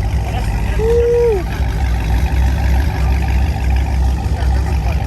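Dodge V8 engines rumbling at idle, a deep pulsing low rumble, with crowd chatter behind. About a second in, a short held tone sounds and then drops in pitch.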